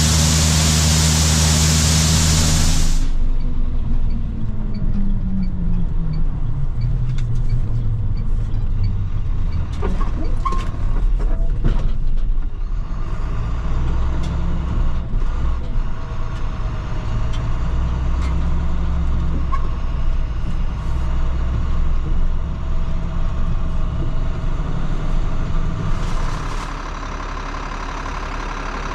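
Loud farm machinery running with a heavy rushing noise, shut off about three seconds in and spinning down with a falling pitch. A diesel engine then runs on at low speed, with a few clanks partway through.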